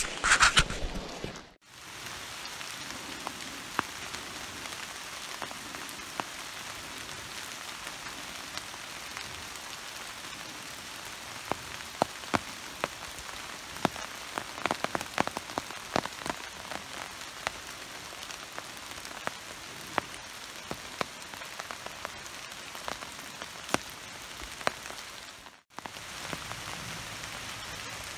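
Steady rain falling on a forest, with many sharp ticks of single drops striking through a constant hiss. The sound briefly drops out twice, once near the start and once near the end.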